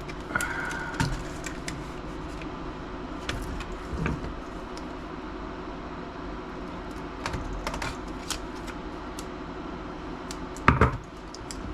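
Scattered light clicks and taps of small metal and plastic laptop parts being handled and worked loose during disassembly, over a faint steady hum, with a louder clatter near the end.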